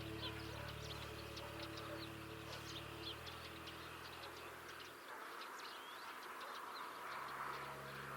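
Small birds chirping: many quick, short, high notes and whistles in rapid succession, over soft background music with sustained low notes.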